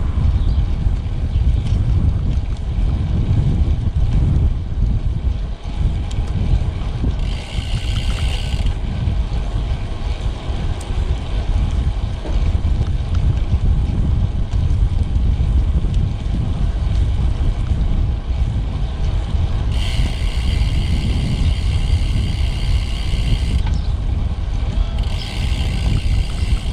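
Wind buffeting the microphone over tyre and road rumble from a moving road bike. Three times a higher, even buzz cuts in and stops abruptly, like the rear freewheel ratcheting while the rider coasts: once briefly about seven seconds in, then for several seconds near the end.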